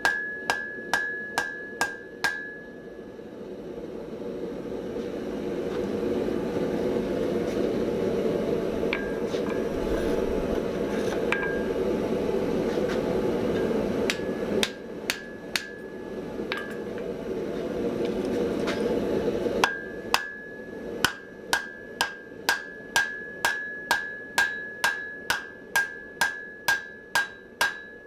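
Hand hammer striking hot mild steel on an anvil at about two blows a second, each blow with a clear anvil ring. The blows stop after about two seconds, and a steady rushing noise with a few light taps fills the middle. Regular ringing blows start again about two-thirds of the way in and run on.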